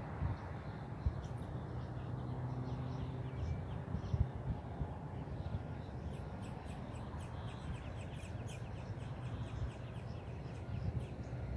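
Outdoor wetland ambience: birds calling in quick series of short, high notes, busiest in the middle of the stretch, over a steady low rumble.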